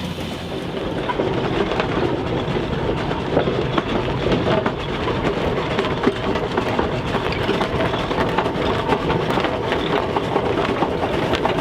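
Steam traction engine running, a steady mechanical clatter with many small clanks.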